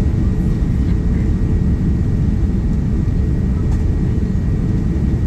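Steady low roar of airflow and engines heard inside the cabin of a Boeing 787-9 airliner on approach.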